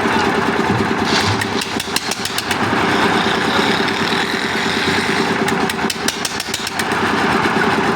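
Concrete mixer's engine running steadily, with a quick run of sharp clicks over it at the start and again from about five and a half to six and a half seconds in.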